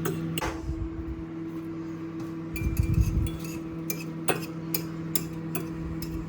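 Fork or spoon clinking against a bowl while stirring part-cooked scrambled egg, in irregular taps that come several a second in the later part, over a steady low hum, with a dull knock about halfway.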